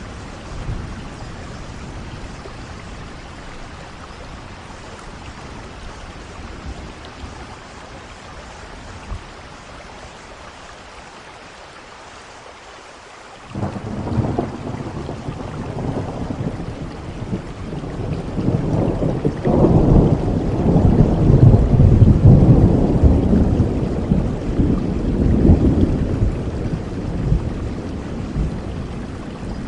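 Steady rain falling, with a roll of thunder that breaks in suddenly about halfway through. The thunder rumbles low and grows louder for several seconds, then slowly dies away.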